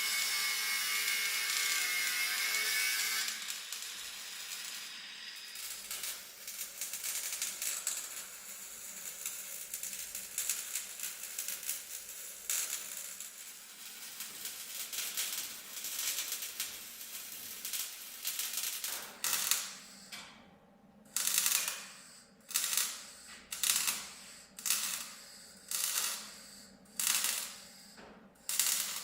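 Workshop tool noise while a reinforced bumper is being made: a hissing tool at first, then uneven scraping and grinding, and in the last ten seconds about ten even hand strokes, roughly one a second, each swelling and then stopping short.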